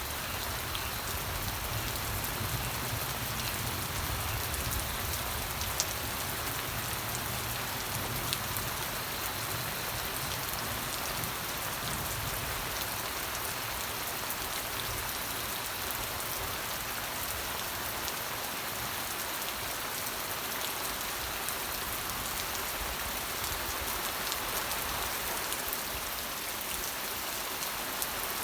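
Steady rain falling on a surface, an even hiss with a few sharper drop ticks now and then.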